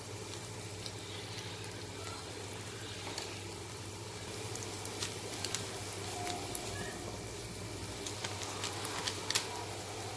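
Scrambled eggs frying in oil in a kadai: a steady low sizzle with scattered small pops and crackles.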